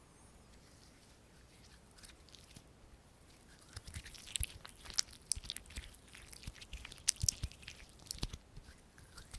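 Close-miked ASMR hand sounds: crisp clicking and crackling from hands and fingers moving right at the microphone. The sound starts faint and becomes a dense run of sharp clicks from a few seconds in.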